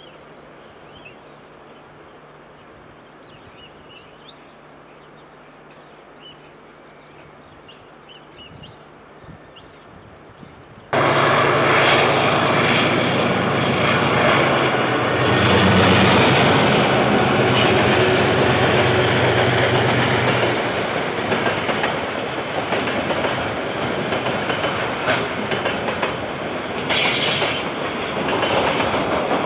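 Quiet outdoor background with a few faint bird chirps. About a third of the way in it gives way abruptly to a freight train passing close by, heard through a security camera's microphone. A diesel locomotive engine runs loudly for several seconds, then a long string of container wagons rumbles and clatters along the track.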